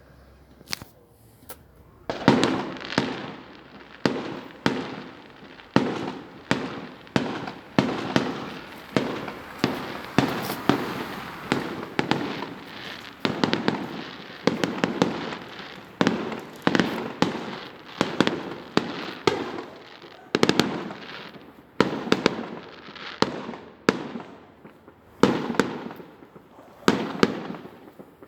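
Fireworks display: aerial shells bursting in rapid succession, sharp bangs about every half second to second, each trailing off in an echo. The first two seconds are quieter, with only a few small pops.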